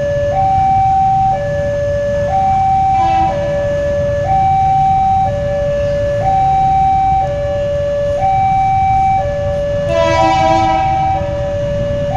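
Two-tone electronic warning alarm, switching between a higher and a lower tone about once a second, over a steady low rumble. A brief horn-like blast sounds twice, about three seconds in and again near the end.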